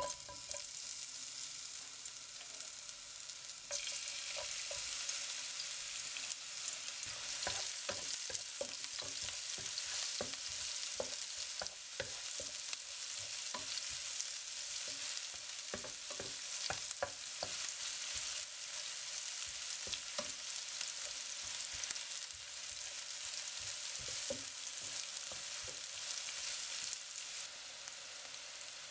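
Sliced red onion and garlic sizzling in hot oil in a non-stick frying pan as they are sautéed, the sizzle getting louder about four seconds in. A wooden spatula knocks and scrapes against the pan in quick strokes as it stirs.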